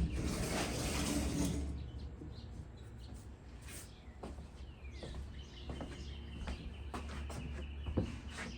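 Birds chirping outdoors, with scattered light knocks and clatter, the sharpest about eight seconds in. A rushing noise fades away over the first two seconds.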